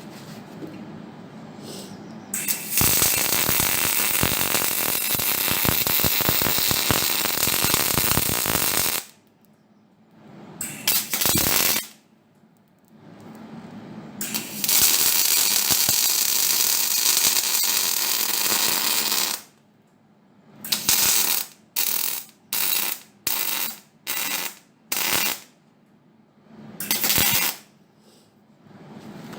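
Arc welding on steel: two long runs of steady crackle lasting about six and five seconds, then a string of about eight short stitch or tack welds near the end, each starting and stopping sharply.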